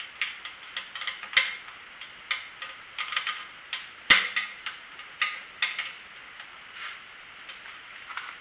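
Small metal hardware clinking and tapping as a bolt and washer are worked through the handle mount of a pressure washer, an irregular run of light clicks with two sharper knocks, about a second and a half in and again about four seconds in.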